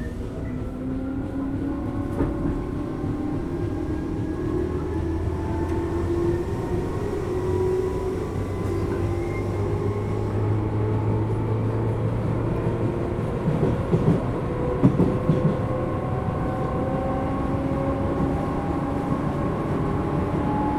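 Tobu 10000 series electric train heard from inside a motor car while running. The motor whine rises slowly in pitch through the first half, and a short run of wheel clanks over rail joints comes in the middle.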